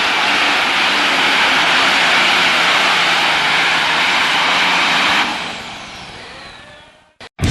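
Turbocharged diesel pulling tractor engine running at full throttle, loud and steady. It fades out about five seconds in.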